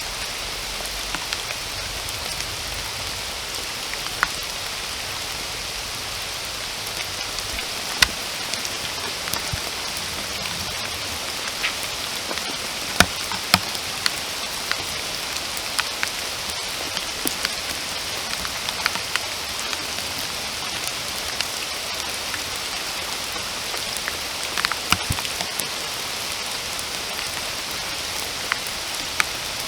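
Steady rain falling, an even hiss, with scattered louder single drops striking close by, several of them near the middle.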